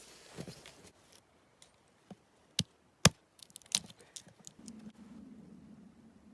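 Dry wood being broken up for kindling: a few sharp, irregular knocks and cracks, the loudest about three seconds in, followed by a faint low steady hum near the end.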